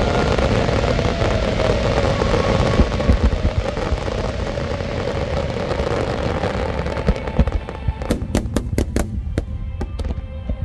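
Large fireworks display bursting over music from loudspeakers: a dense, continuous rumble of many shells going off at once. From about eight seconds in it turns to a rapid string of sharp cracks, several a second.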